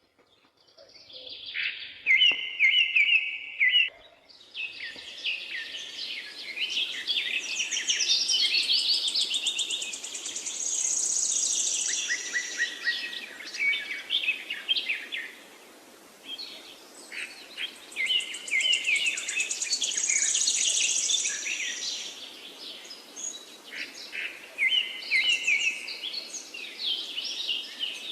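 Several forest birds singing and chirping over one another, with rapid high trills and repeated chirp phrases, over a steady faint background hiss.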